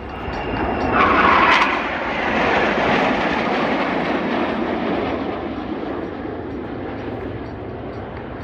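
An aircraft passing by at an air show: its engine and propeller noise swells about a second in, peaks, then slowly fades as it flies away.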